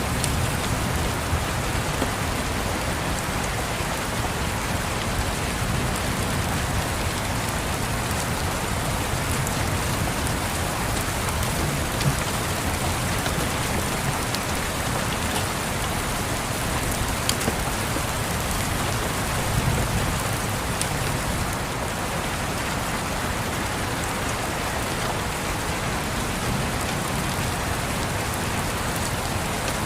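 Steady rain making an even hiss, with a few faint ticks scattered through it and soft low swells rising and falling underneath.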